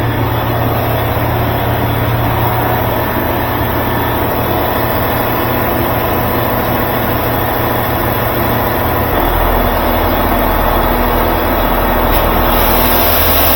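Steady, loud machine noise with a low hum, the hum dropping in pitch about nine seconds in.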